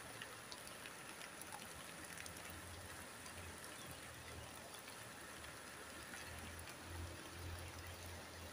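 Light drizzle falling, a steady hiss dotted with small drop ticks. A low rumble comes and goes near the end.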